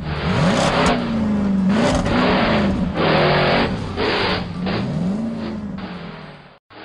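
Race-car sound effects: engines revving up and down, with a whoosh of a car passing by about once a second. The sound cuts off suddenly near the end.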